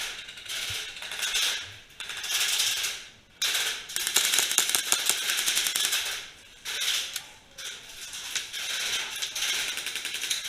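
Airsoft guns firing in several rapid-fire bursts of fast, closely spaced clicks, the longest lasting about three seconds in the middle.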